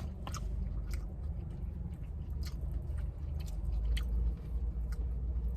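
Close-up chewing of chicken wings, with irregular small wet clicks over a steady low hum.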